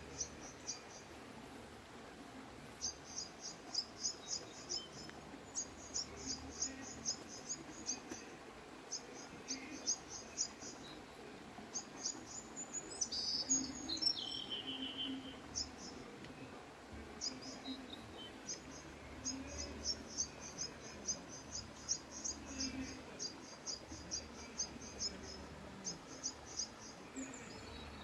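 A bird calling over and over: short runs of rapid high chirps, each run lasting a second or two with short gaps between, and a different, falling call about halfway through.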